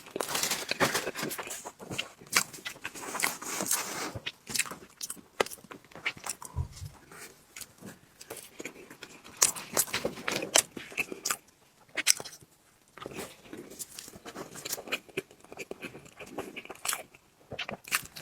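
Close-miked eating of soft tiramisu cake: wet chewing with many irregular mouth clicks and smacks.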